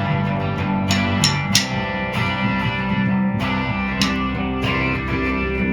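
A band playing an instrumental passage: guitar chords over bass guitar and drums, with sharp drum or cymbal hits about a second in and again near four seconds.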